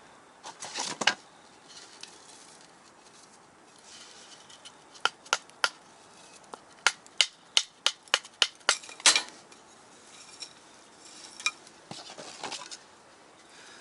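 Batoning firewood with a Morakniv Garberg knife: a baton knocks on the back of the blade with sharp strikes. There are three strikes about five seconds in, then a quicker run of about eight strikes.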